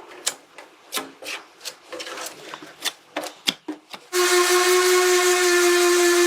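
Irregular scraping and clicking. About four seconds in, a workshop tool starts up suddenly and runs with a loud steady hiss and a steady whine.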